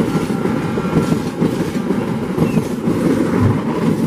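Passenger train coaches rolling past close by, a continuous loud rumble of steel wheels running on the rails with irregular clattering.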